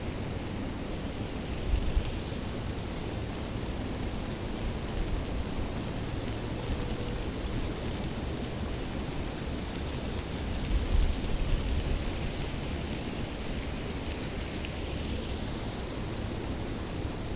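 Steady rushing outdoor noise, with wind buffeting the microphone in low rumbles about two seconds in and again around eleven seconds in.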